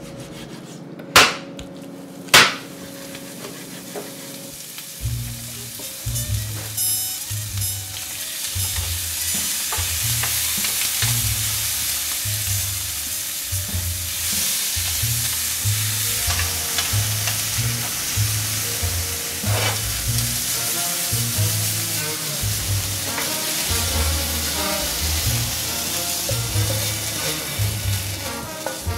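Diced chicken sizzling in a nonstick frying pan while being stirred with a wooden spatula, the sizzle growing louder after about five seconds. Two sharp knocks come near the start.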